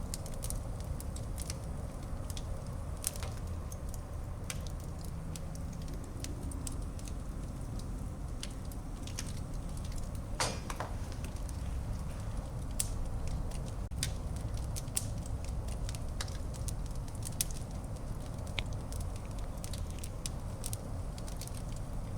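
Wood fire burning in a fireplace: steady crackling with scattered sharp pops over a low rumble, and one longer, louder crackle about halfway through.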